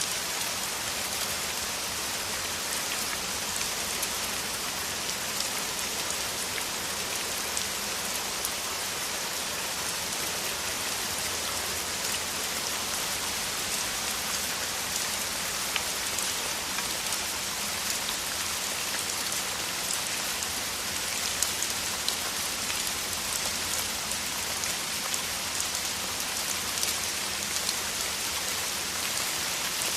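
Heavy rain falling steadily, a dense even hiss with many small drop ticks scattered through it.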